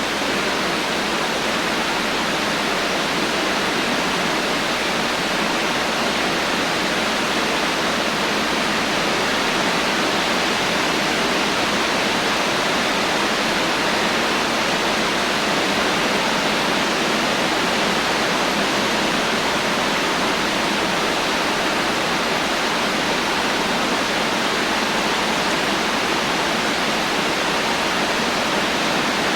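Steady heavy rain, a dense even hiss with no thunder and no single drops standing out.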